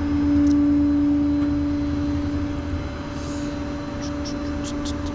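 Engine idling with a steady droning hum and a constant tone, a little louder in the first second, with a few faint light ticks near the end.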